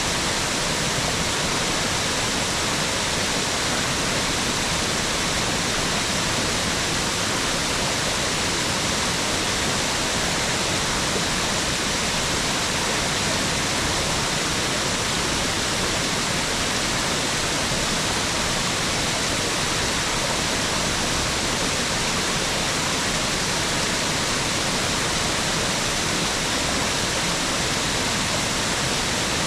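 Mountain waterfall rushing steadily, an even hiss-like roar of falling water with no change in level.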